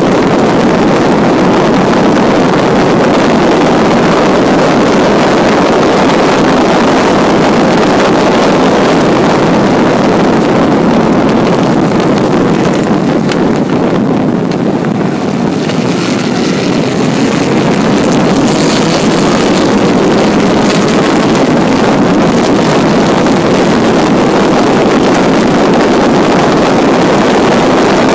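1952 Jaguar XK120's 3.4-litre twin-cam straight-six at racing speed, with wind noise on the microphone. The engine note drops as the car slows for a corner about halfway through, then climbs steadily as the car accelerates hard down the straight.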